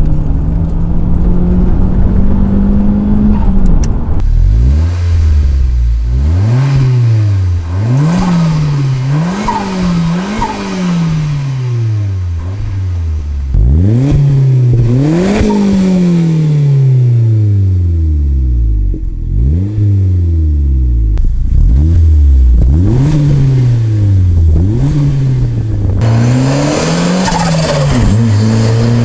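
Turbocharged four-cylinder engine of a Mazdaspeed Protege, breathing through a new MagnaFlow cat-back exhaust, revving up and falling back over and over. The engine note is steadier during the first few seconds.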